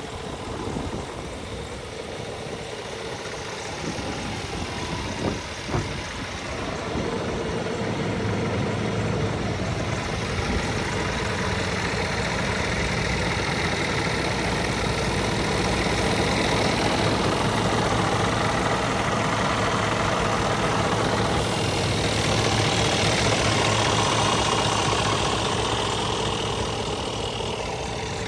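Scania truck engine running steadily, with a couple of short knocks about five seconds in, then growing louder and staying up.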